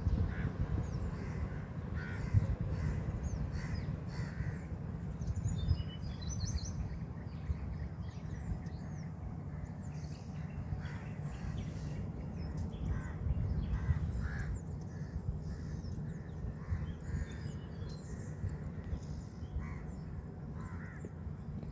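Many short bird calls, some in quick chirping runs, over a steady low rumble.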